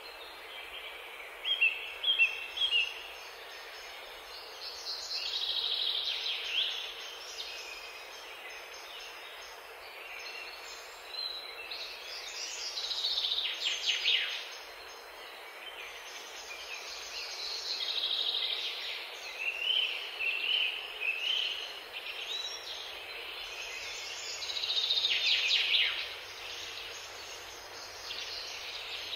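Small songbirds singing in short, repeated chirping phrases, in several bouts, over a steady background hiss.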